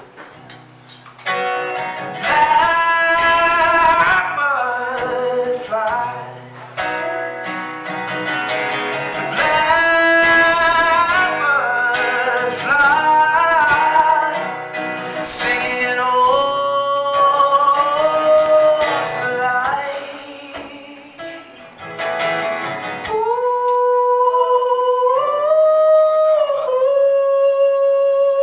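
A singer with guitar accompaniment performing a song live, the voice wavering through a melody and then holding long notes that step up and down near the end.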